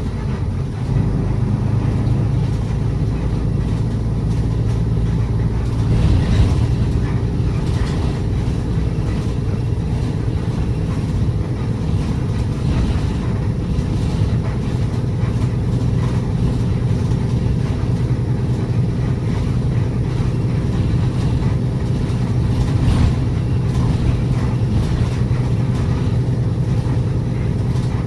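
Route bus engine running steadily while the bus drives, heard from inside the cabin as a low drone. A few brief knocks and rattles from the bus body come through over bumps.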